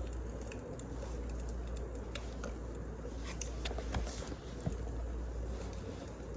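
Wood fire burning: a steady low rumble with scattered sharp crackles and pops, more of them about halfway through.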